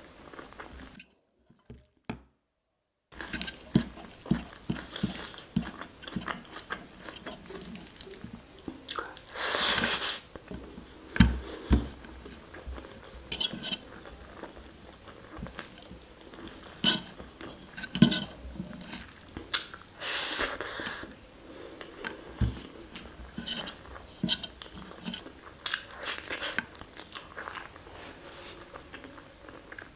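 Close-miked chewing and wet mouth smacking of someone eating basmati rice with mutton curry by hand, with many small clicks and a few longer wet swells. The sound drops out for about two seconds about a second in.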